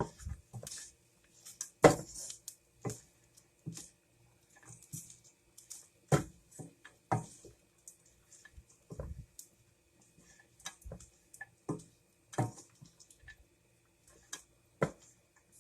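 Spoon mixing flattened rice in a cooking pan: irregular clicks and knocks of the spoon against the pan, with short scrapes in between, the loudest knock about two seconds in.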